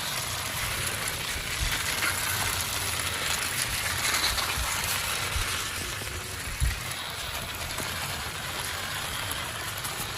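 Steady hiss with scattered light knocks and rattles, and one sharper thump about two-thirds of the way through.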